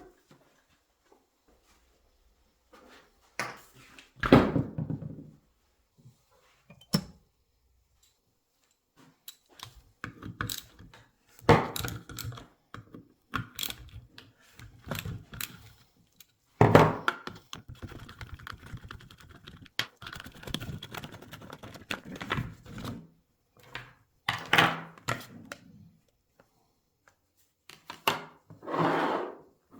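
Scattered workshop knocks, clunks and clatters of metal parts and tools being handled and set down, with quiet gaps between them.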